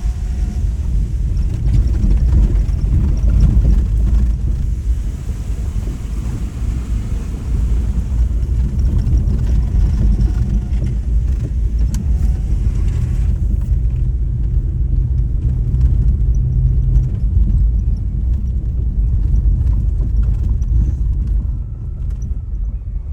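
Steady low rumble of a vehicle on the move along a road, easing off slightly near the end.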